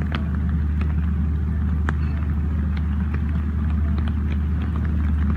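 Rain falling, with scattered sharp drips and taps over a steady low rumble.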